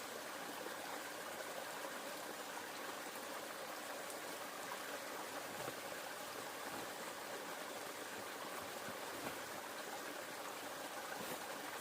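Steady rushing of flowing river water, with a couple of faint ticks in the second half.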